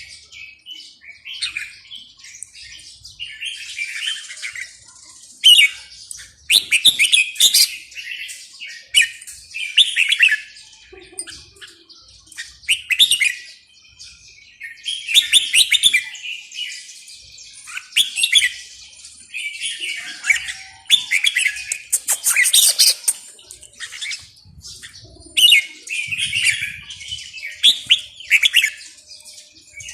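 A songbird singing, repeating short phrases of bright chirps and warbles every couple of seconds with brief pauses between them.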